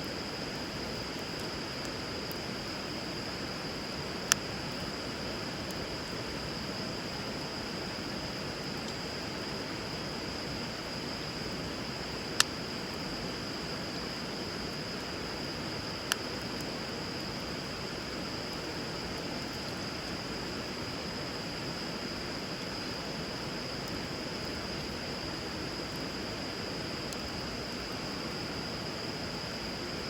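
Steady rush of flowing river water, with three sharp pops from the burning wood fire, the second one loudest.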